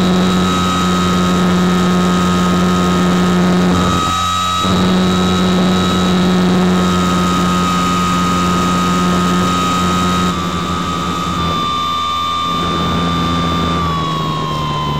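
Motor and propeller of a powered RC glider, heard from a camera mounted on the plane, running with a steady whine. It dips briefly about four seconds in, and near the end the pitch falls as the throttle comes back.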